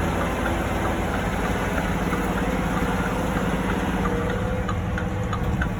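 Heavy truck's diesel engine running steadily at low revs while crawling in low gear down a steep driveway, with light rattling ticks near the end.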